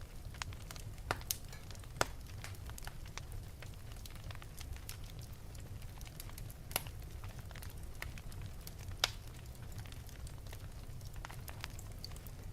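Fire burning in an open fireplace, crackling with scattered sharp pops over a steady low rumble. The loudest pops come about a second in, about two seconds in, near seven seconds and about nine seconds in.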